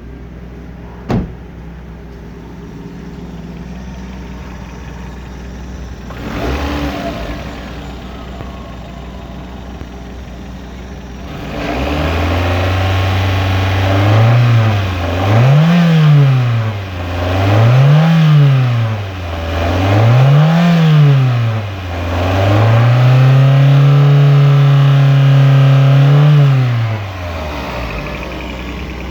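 Toyota 3S-GE twin-cam inline-four engine under test, first idling steadily. A sharp click comes about a second in. About halfway through, the engine is revved with three quick blips, held at a higher speed for a few seconds, then let fall back toward idle.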